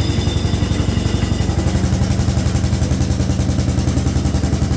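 Allis Chalmers B210 garden tractor's engine running steadily with a fast, even pulse, its tone filling out slightly about two seconds in.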